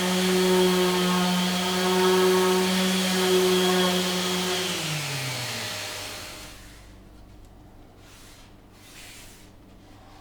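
Electric power tool running at steady speed, then switched off about four and a half seconds in, its pitch falling as the motor spins down and stops. Faint handling rustles follow.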